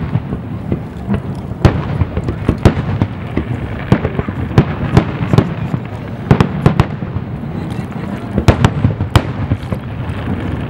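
Aerial fireworks display: a string of sharp bangs from bursting shells, more than one a second at irregular spacing, over a continuous low rumble and crackle.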